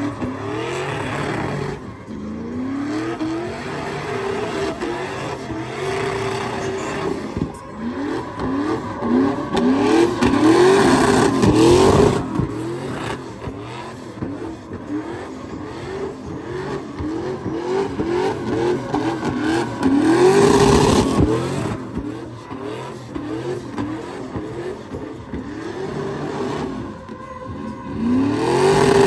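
A truck engine being revved over and over, its pitch climbing quickly and then holding flat at the top several times, with loud peaks around ten seconds in and again about twenty seconds in.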